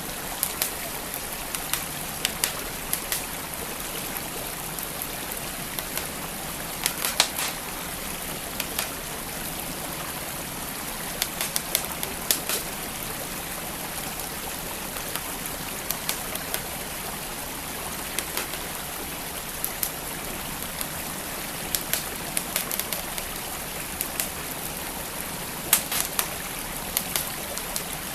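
Wood fire crackling, with scattered sharp pops and snaps, over the steady rush of a flowing stream.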